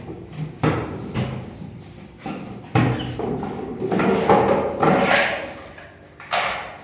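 Plywood bird breeding boxes being handled, with several sharp wooden knocks and thumps and a rougher stretch of scraping and rustling around four to five seconds in.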